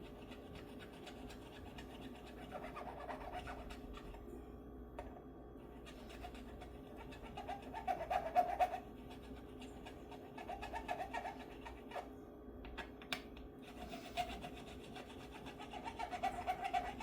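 Metal file worked in short bursts of strokes across a guitar's frets, a rasping with a mid-pitched ring. This is fret levelling to take down high frets that cause fret buzz.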